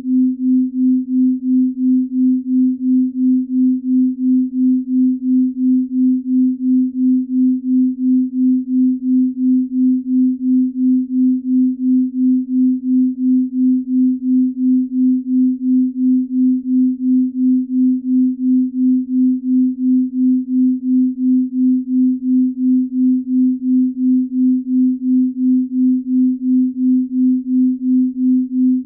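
Binaural-beat tone: a steady pure tone of about 250 Hz that swells and fades evenly about two to three times a second, the beating of two slightly detuned sine tones at a slow, sleep-range rate.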